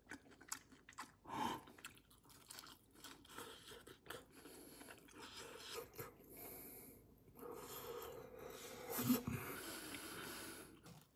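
Quiet close-up chewing of a bite of pan-fried furikake rice patty with pollock roe, its golden crust giving small, irregular crunches.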